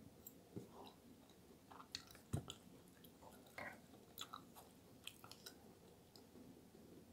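Faint, close-miked chewing of soft, cheesy eggplant parmigiana: small wet mouth sounds and clicks, with a sharper click a little over two seconds in.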